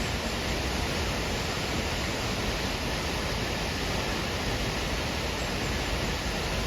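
Steady rush of falling water, an even roar with no breaks.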